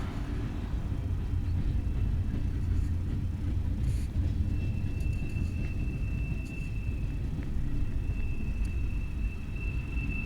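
Freight train rolling past with a steady low rumble. About four and a half seconds in, a thin, steady high-pitched squeal joins it and holds.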